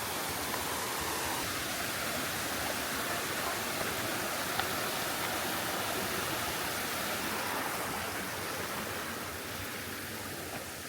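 Waterfall: a steady rush of water pouring over the lip, easing off a little near the end.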